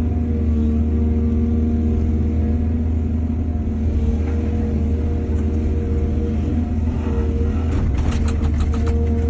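Excavator's diesel engine running steadily under load, its pitch shifting slightly as the machine works. Near the end comes a rapid series of clanks and knocks.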